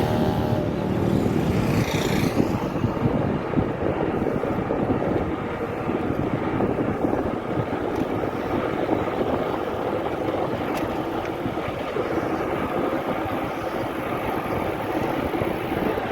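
Wind buffeting the microphone of a moving bicycle ride, with road noise underneath; a steady rumbling rush throughout.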